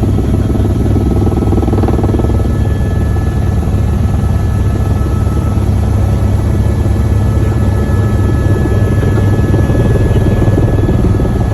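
Helicopter running steadily in flight: a loud, even rotor and engine drone with a rapid chop, and a faint steady high whine over it.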